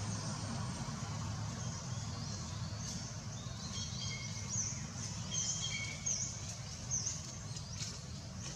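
Birds chirping, a string of short high calls starting about three seconds in, over a steady low rumble of outdoor background noise.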